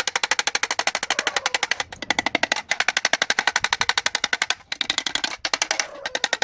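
A hand-held power tool hammering rapidly, about sixteen sharp strikes a second, in runs that stop and restart several times.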